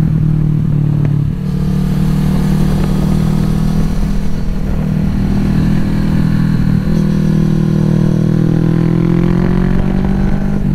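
2020 Kawasaki Z650's parallel-twin engine, fitted with an aftermarket exhaust, running under way at cruising speed. The throttle eases briefly about a second in, and the engine note rises steadily over the last few seconds as the bike accelerates.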